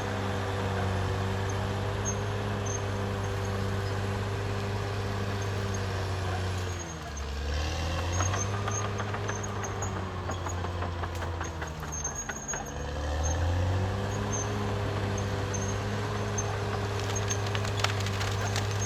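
Caterpillar D6R XL bulldozer's diesel engine running steadily, its pitch sagging and recovering twice, about a third and two-thirds of the way in. A few metallic clanks come near the end.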